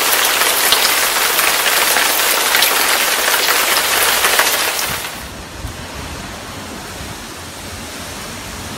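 Heavy storm rain hissing steadily, cutting off abruptly about five seconds in. Then a quieter sound of wind in trees, with gusts rumbling on the microphone.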